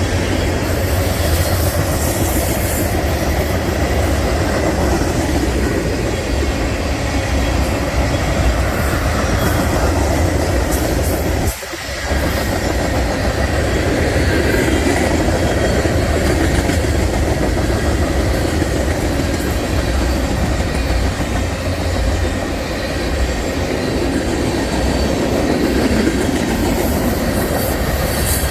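Train rolling past at close range, a steady rumble of steel wheels on the rails, with a brief dip in the noise about twelve seconds in.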